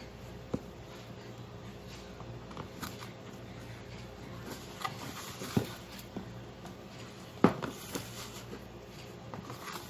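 Scattered light taps and knocks of things being handled and set down, a few seconds apart, the sharpest about seven and a half seconds in, over faint room noise.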